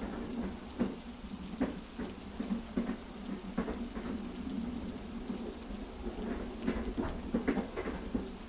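Heavy rain mixed with a train carriage's steady low rumble and irregularly spaced clacks of wheels over rail joints.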